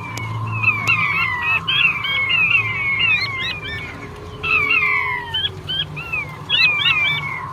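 Male puyuh batu quail calling: a rapid series of short, falling whistled notes, overlapping one another, with a brief pause about four seconds in.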